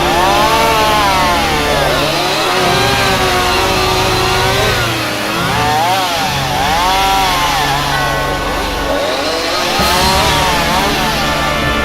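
Chainsaw running and cutting, its engine pitch swinging up and down every second or two as it revs and bogs under load.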